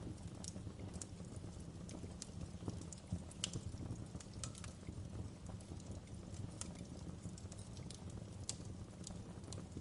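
Fireplace crackling: a steady low rumble of burning with irregular sharp snaps and pops.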